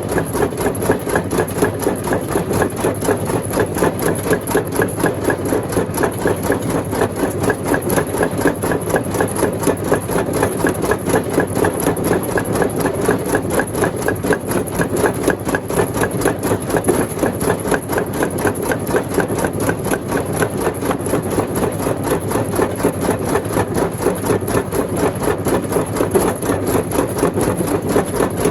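Stone crusher machine running steadily, a loud mechanical sound with a fast, even pulsing rhythm.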